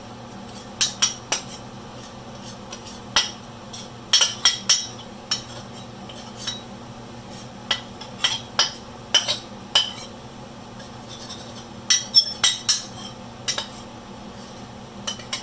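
Cooked egg being chopped up in a bowl with a utensil: sharp, irregular taps and clinks against the bowl, coming in uneven clusters with short pauses between. A low steady hum runs underneath.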